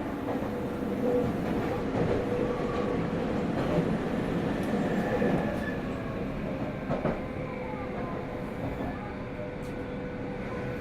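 Running sound heard inside the car of a Meitetsu 100 series electric train: a continuous rumble of wheels on rails, with a steady humming tone and a few sharp clicks.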